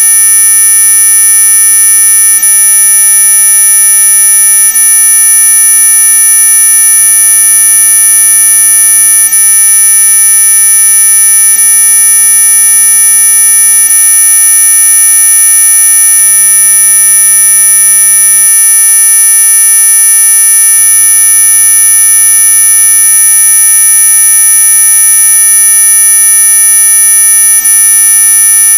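Synthetic anti-mosquito 'ultrasonic' repellent tone: a loud, unchanging electronic whine made of several steady pitches at once, from a low hum up to very high, shrill tones.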